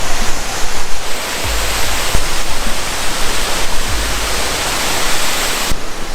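Storm wind rushing steadily, with gusts thudding on the microphone. The rush cuts off abruptly near the end.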